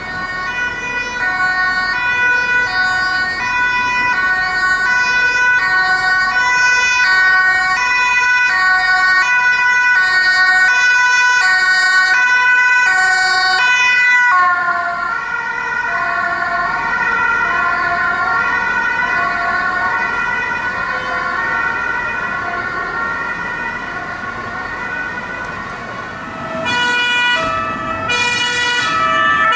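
Two-tone sirens of unmarked police cars, switching back and forth between two pitches with road vehicle noise underneath. The siren pattern changes abruptly about halfway through and again near the end, as a different car's siren takes over.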